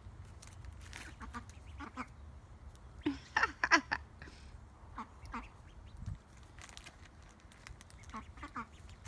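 Ducks quacking in short, scattered calls, with a louder run of quacks about three to four seconds in.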